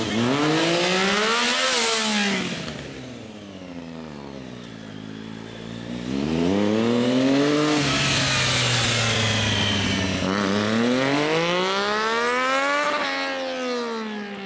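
Triumph motorcycle's three-cylinder engine revving up and down during stunt riding, with repeated rising and falling swells of engine speed. It climbs to peaks about 2 s in, about 8 s in and near the end, and drops to a low, slow run in between, lowest around 5 s in.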